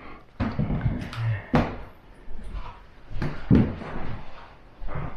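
A series of irregular knocks and thumps, like a door or cupboard being handled or heavy steps on a wooden floor; the loudest come about a second and a half in and about three and a half seconds in.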